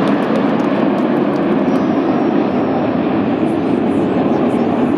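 Jet noise from the Red Arrows' BAE Hawk T1 formation flying past, a steady loud rush from their Rolls-Royce Turbomeca Adour turbofans. A faint high whine rises about two seconds in.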